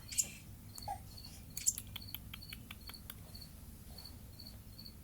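A cricket chirping steadily, a short high chirp repeating about two to three times a second, with a few faint clicks and taps among it.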